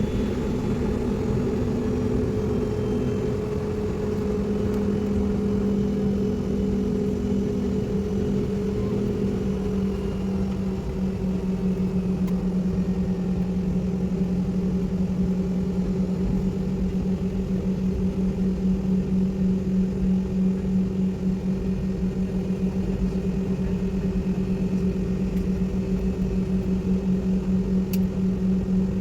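Airliner engines droning steadily as heard inside the cabin, a low hum with a higher overtone; the pitch drops slightly about ten seconds in, and the hum then takes on a fast pulsing beat.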